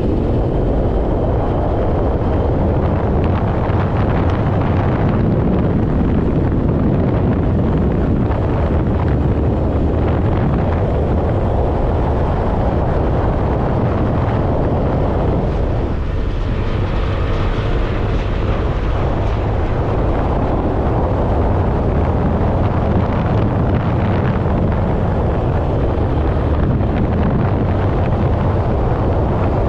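Motorcycle running steadily at road speed, with wind buffeting the microphone.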